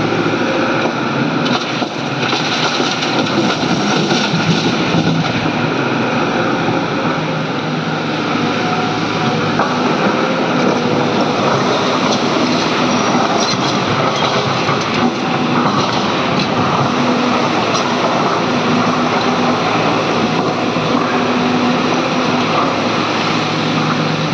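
Hydraulic excavator's diesel engine running steadily under load, with a dense mechanical and hydraulic noise that keeps on without a break.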